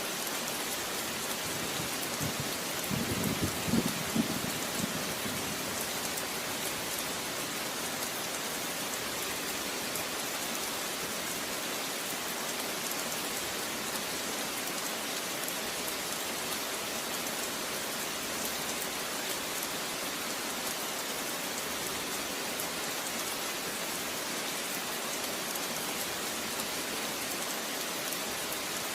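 Steady rain falling, an even hiss of many drops, with a brief louder low swell about three seconds in.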